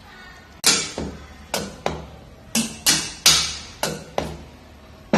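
A hammer knocking on an engine valve assembly, about eight sharp strikes at uneven intervals, each with a brief ring.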